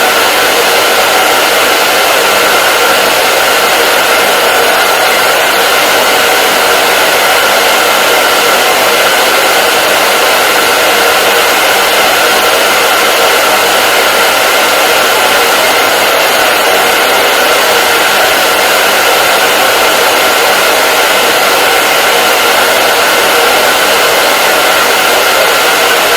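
Hair dryer running steadily with an even rushing air noise and a constant motor whine.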